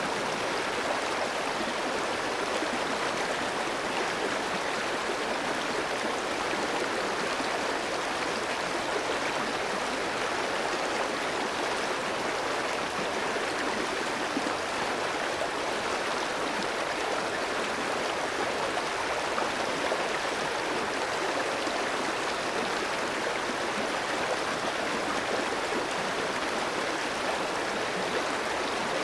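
A clear shallow stream flowing over rocks, a steady rushing and babbling of water.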